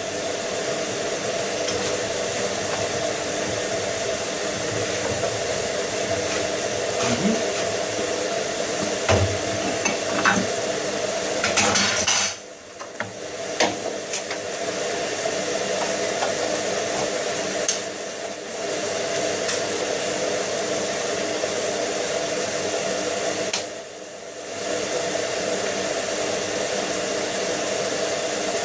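Rexon BD-46A belt and disc sander running steadily with a shop dust extractor hooked up to it, on a dry run. There are a few knocks and clinks about a third of the way in, and the machine sound dips briefly a few times.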